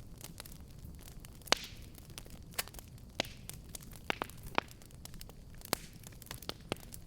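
Fireplace fire crackling and popping: irregular sharp pops over a low, steady rumble and hiss, the loudest pop about one and a half seconds in.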